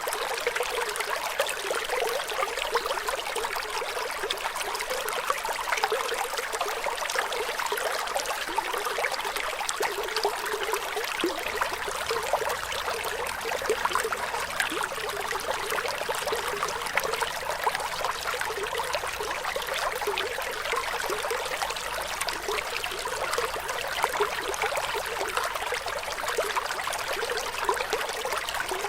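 Flowing water trickling and splashing steadily, with fine continuous bubbling and little bass.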